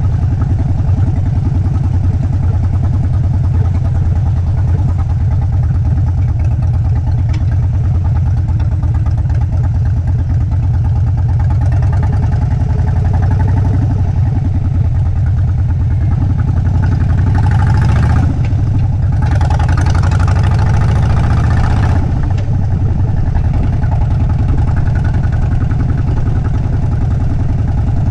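Harley-Davidson V-twin motorcycle engine running with a steady, deep, pulsing beat. About two-thirds of the way through, a louder rushing noise rises over it for a few seconds.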